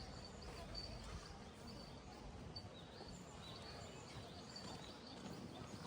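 Quiet outdoor ambience: a steady low background noise with short, high bird chirps scattered throughout.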